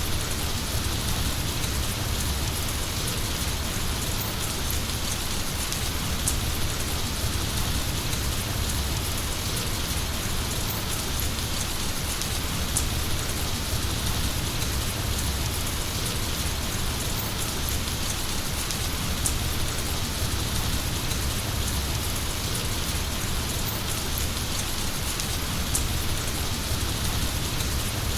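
Heavy rain falling steadily, an even hiss with scattered drop ticks and a low rumble beneath.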